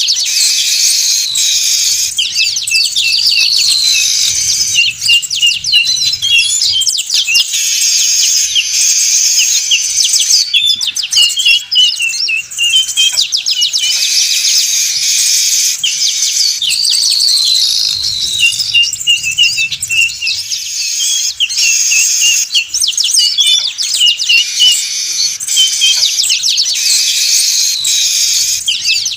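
A noisy flock of manyar weaver birds chattering without pause: dense, overlapping high chirps, rapid trills and short falling whistles, a lure-call recording played in a loop that repeats about every fourteen seconds.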